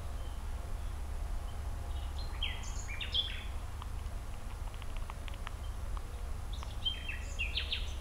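A songbird singing two short, varied phrases, about two seconds in and again near the end, with scattered short sharp notes between them, over a steady low rumble.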